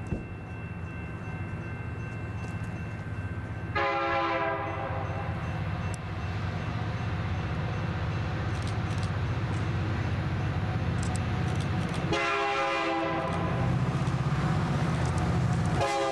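Diesel freight locomotive rumbling as it approaches, sounding its multi-note air horn three times: about four seconds in, about twelve seconds in, and again near the end.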